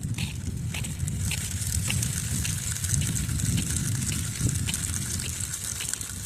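Wind buffeting the microphone with a steady low rumble and hiss, over faint footsteps at a walking pace of about two a second.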